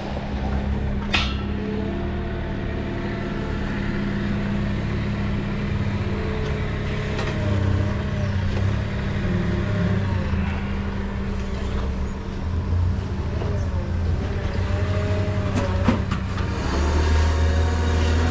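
A vehicle engine running steadily with a low hum, with a couple of sharp clicks, one about a second in and another near the end.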